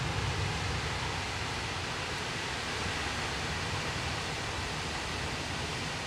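Strong storm wind blowing steadily, with a low fluctuating rumble underneath and slightly stronger gusts near the start.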